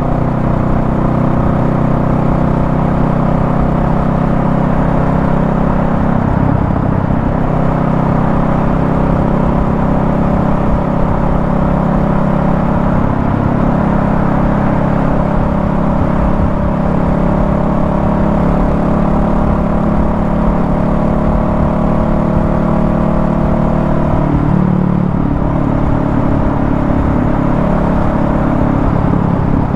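Honda Rebel 500's 471 cc parallel-twin engine running at a steady freeway cruise. Its pitch shifts slightly about 25 seconds in.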